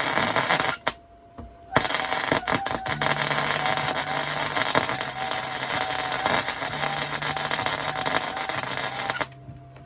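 Electric arc welder crackling as a gear is tack-welded on. A short burst of arc, a pause of about a second, then a long steady crackling run that stops shortly before the end.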